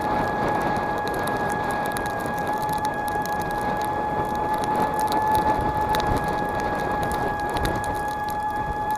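S12X Vita Monster mobility scooter's electric drive running at a steady speed: a constant high whine over a rushing noise from the tyres through snow.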